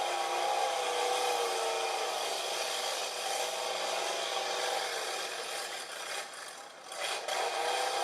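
Mud-bog truck engine running at high revs with a harsh, rasping edge, its pitch wavering up and down; it drops off briefly near the end and picks up again.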